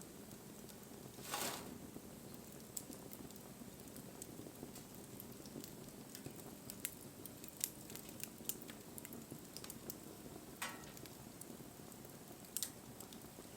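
Wood fire crackling: scattered sharp pops and snaps over a faint steady haze of burning, with two brief swells of noise, one about a second in and one about ten seconds in.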